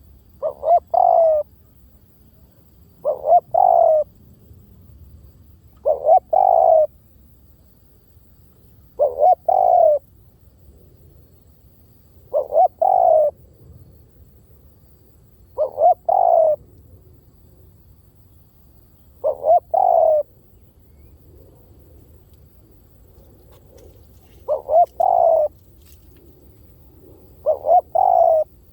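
Spotted dove cooing over and over: nine calls, roughly one every three seconds with one longer pause past the middle, each two short quick notes followed by a longer falling coo.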